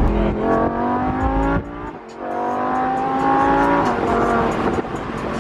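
A Lamborghini's engine accelerating hard: its pitch climbs, drops briefly at a gear change about a second and a half in, then climbs again before fading.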